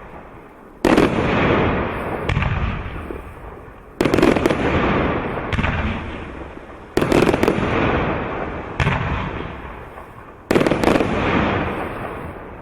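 Firework cake of 30 mm shells bursting in a steady sequence, about one every second and a half. Each sharp bang is followed by a long fading crackle.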